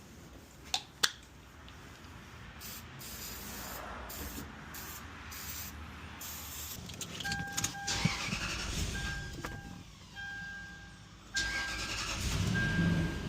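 Two sharp clicks, then a car's electronic warning chime beeping on and off repeatedly in the second half. Near the end a louder low rumble sets in.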